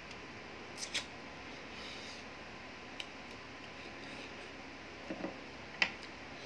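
A person chewing and smacking their lips while eating by hand. There are a few short sharp smacks and clicks: a pair about a second in, one at three seconds, and a few more a little past five seconds.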